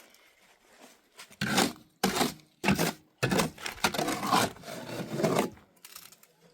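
Four rough scraping strokes, the last one longer, about two seconds.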